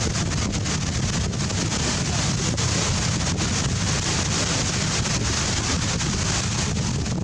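Strong wind buffeting the microphone: a steady low rumble with a hiss over it.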